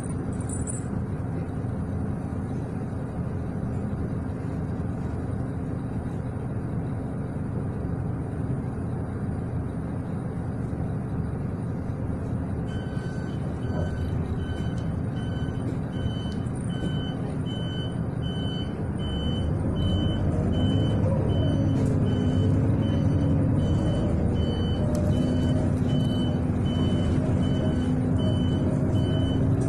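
City bus engine and road noise heard from inside the bus, with a regular electronic beeping starting about halfway through. Near the end the engine grows louder and its pitch rises and falls as the bus pulls away and accelerates.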